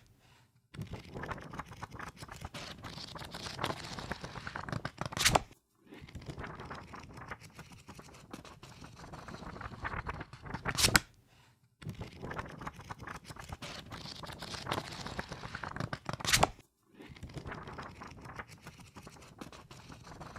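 Pages of a book riffled through quickly: a dense run of papery flicks lasting about five seconds and ending in one sharp, louder flick, then a short pause, repeated three times with a fourth run starting near the end.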